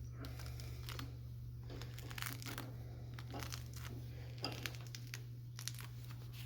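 Strands of steel wire-rope cable scraping and clicking against each other as the loose tail is wrapped by hand around the cable to form an eye. A steady low hum runs underneath.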